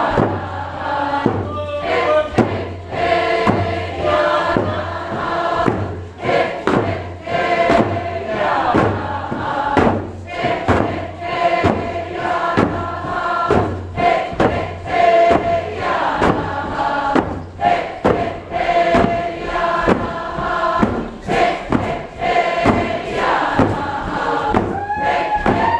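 A large group of voices singing a Tlingit song together over a steady beat.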